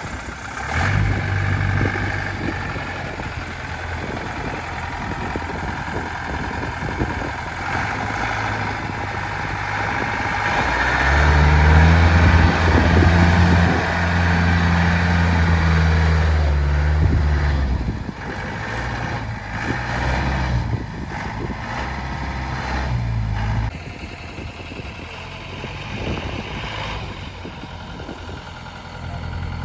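Off-road vehicle's engine running, its note shifting as the revs change, held louder and steadier at higher revs for several seconds in the middle before dropping back.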